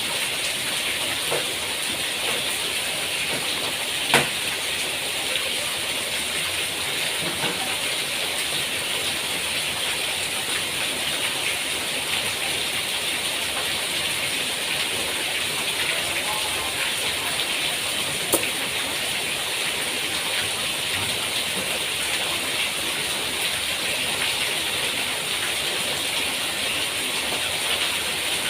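Steady rain hiss with no change in level. Two sharp knocks, about 4 seconds and 18 seconds in, stand out as the loudest moments.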